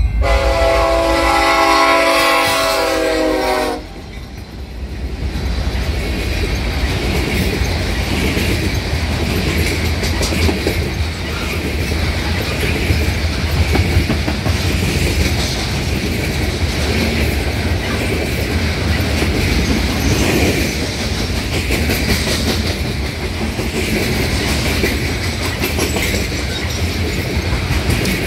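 Freight train led by an EMD SD75I diesel locomotive: the lead locomotive's multi-note air horn blows for the grade crossing and cuts off about four seconds in. Then the locomotives and a long string of covered grain hopper cars roll past with a steady rolling noise and a rhythmic clickety-clack of wheels over the rail joints.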